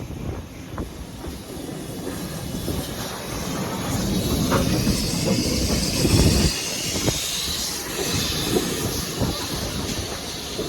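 Steam train on the move: a steady low rumble with irregular clicks and knocks of wheels over the rails, and a hiss of steam that swells from about three seconds in and dies away near the end.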